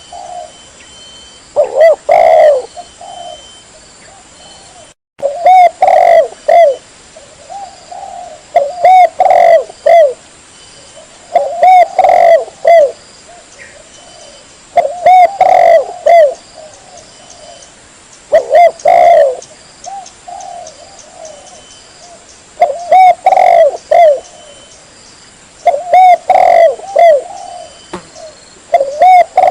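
Spotted dove (tekukur) cooing loudly, the same short multi-note coo phrase repeated about every three seconds.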